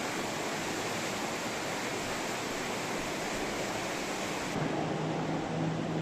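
Steady rush of flowing water, an even hiss-like roar. About four and a half seconds in, it changes to a steady low hum with a held tone.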